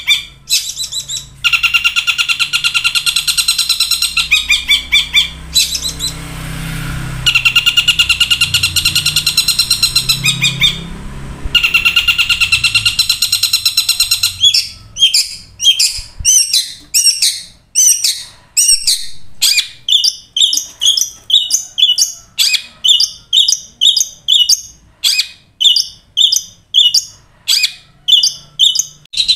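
Loud bird calls: a long, fast, harsh rattling trill, broken twice by short pauses. About halfway through it gives way to a run of sharp repeated notes, about two a second.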